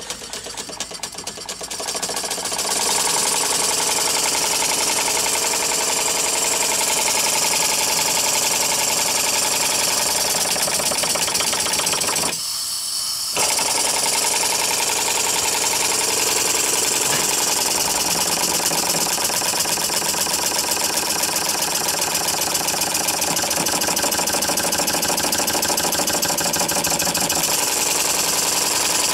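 Homemade model steam engine with a slide valve, running on compressed air: a fast, steady rhythm of exhaust beats with a hiss. It speeds up over the first couple of seconds and dips briefly for about a second near the middle before picking up again.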